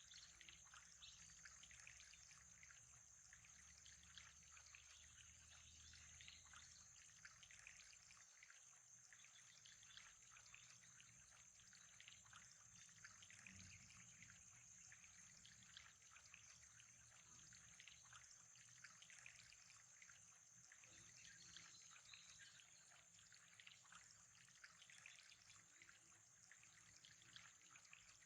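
Faint trickling water, a dense crackle of small splashes with a steady high hiss above it.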